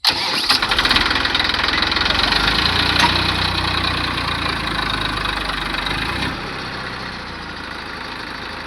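Tractor's diesel engine running, coming in abruptly at the start. It runs at its loudest for about six seconds, then drops to a slightly lower, steady level.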